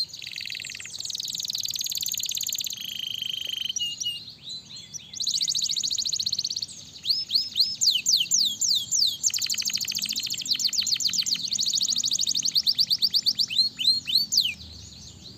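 Domestic canary singing: fast rattling trills alternating with runs of quick, downward-sweeping whistled notes, with a short lull about four seconds in.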